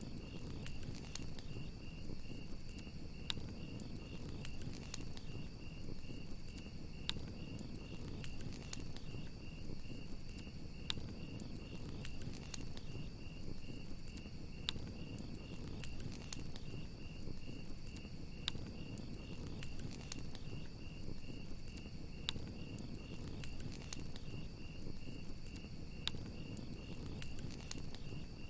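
Campfire crackling, with sharp pops every second or two over a low rush of burning wood, while crickets chirp steadily in a fast, even pulse.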